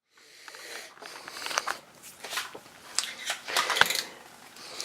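Irregular rustling and scattered sharp clicks of something being handled, with the loudest click about four seconds in.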